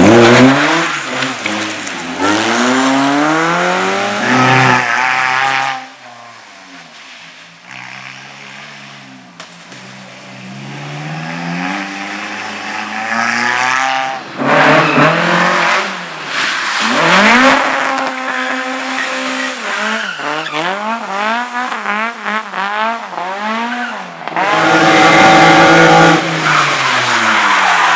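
Competition car engine revving hard in a slalom run, pitch climbing and dropping again and again as it accelerates, shifts and brakes between cones, with tyre squeal. It eases off for a few seconds early on, then surges back, holding its highest revs near the end.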